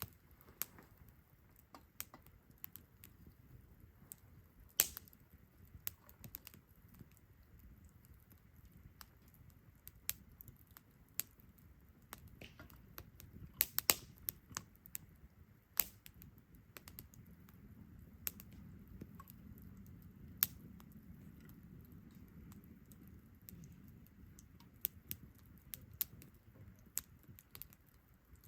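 Wood campfire crackling, with irregular sharp snaps and pops. A soft low rush of burning builds slightly in the middle stretch.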